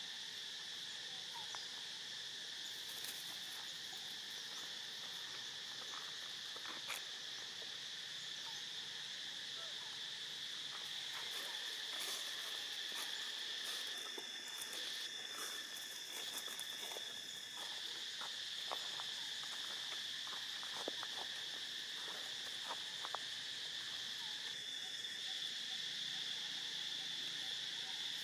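Steady high-pitched chorus of insects trilling, with a second insect call starting and stopping in short stretches in the middle and again near the end, over scattered faint clicks and rustles.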